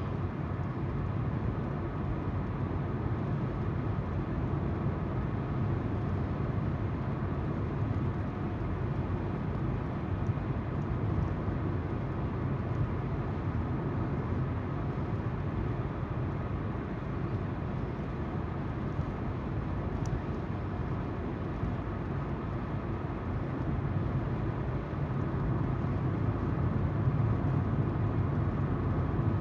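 Steady car road noise, tyres rolling on the road with the engine humming underneath, growing a little louder near the end.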